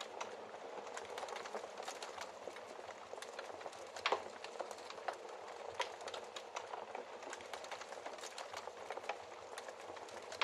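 Wood fire crackling in a fireplace: a steady soft hiss with frequent, irregular sharp pops and snaps. The loudest pop comes about four seconds in.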